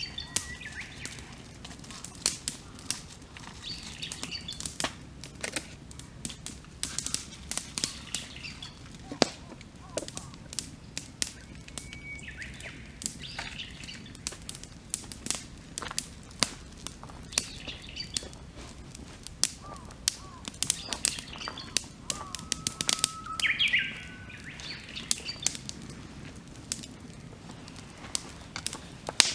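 Wood campfire crackling with many sharp pops and snaps, while birds call and sing around it; one bird's call, about three quarters of the way through, is louder than the rest.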